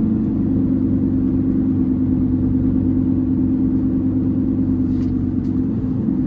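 Semi-truck's diesel engine running steadily, a constant low drone with a strong hum. Two faint ticks come about five seconds in.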